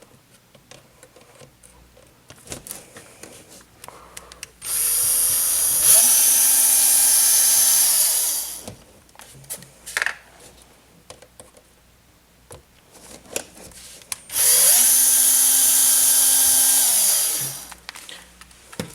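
Cordless drill fitted with a 2 mm hex bit backing out small screws from an RC axle housing. It runs twice, a few seconds each time, with the motor whine rising as it spins up and falling as it stops. Light clicks of handling come between the runs.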